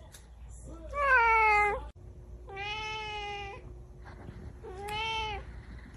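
Domestic cat meowing three times. The first meow is the loudest and falls in pitch; the second is longer and steady.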